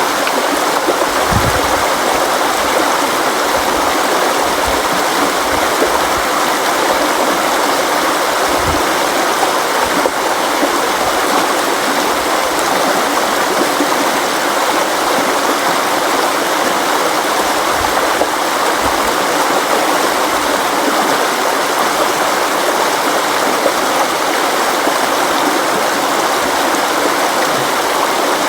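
River water flowing in a steady, even rush, with a few brief low thuds.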